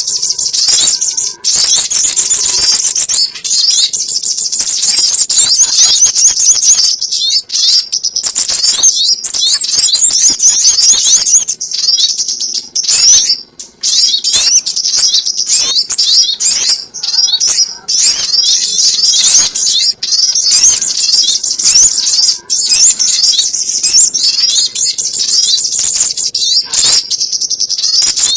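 Loud, dense birdsong of rapid high-pitched chirps and twitters from sogon birds, a recording played as a trapping lure. The chirping comes in long runs broken by short gaps.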